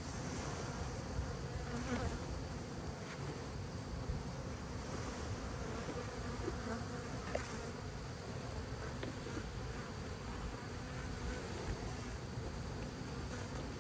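Honeybee swarm buzzing steadily all around, with a few faint clicks from handling.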